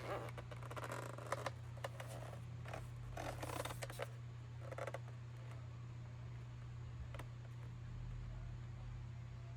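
Rustling and scraping of handled packaging or objects in the first half, then a few scattered clicks, over a steady low hum.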